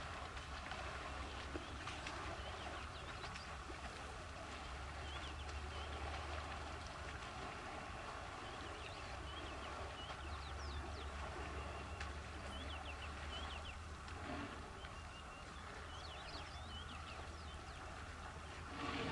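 Scattered chirps and twitters of small birds over a steady hiss and a low, steady rumble.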